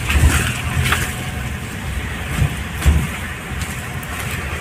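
Mahindra Scorpio's mHawk four-cylinder diesel engine running as the car drives slowly over a rough, wet lane, heard from inside the cabin with a steady low hum and a few brief thumps. It keeps running without cutting out now that its high-pressure fuel pump has been serviced.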